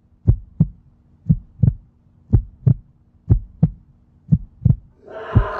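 Heartbeat sound effect: low paired thumps, lub-dub, about once a second, five beats over near silence. Music with singing comes back in near the end.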